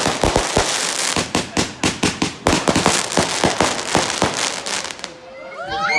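Fireworks crackling: a rapid, dense string of sharp cracks that thins out and dies away about five seconds in.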